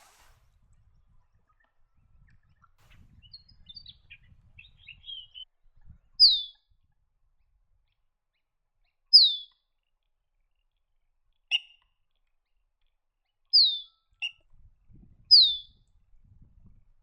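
A bird calling: four loud, short whistles sliding downward, a few seconds apart, with softer chips and twitters before them and a couple of short clicks between.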